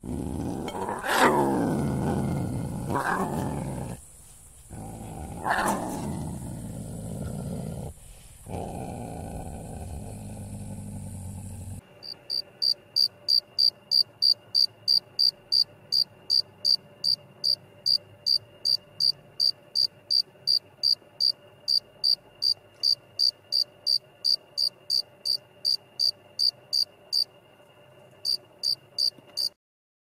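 Cheetahs purring, a low continuous rumble with three louder rising-and-falling calls over it, for about twelve seconds. Then an insect chirps in a steady rhythm of about three high chirps a second, with a short pause near the end before it stops.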